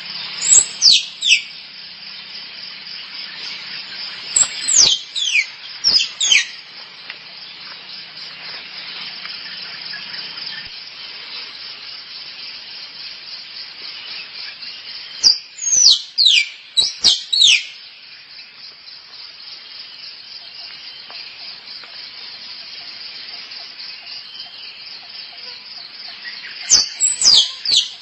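Squirrel calls: four bursts of two to four sharp chirps, each falling quickly from very high to mid pitch, over a steady high-pitched hiss.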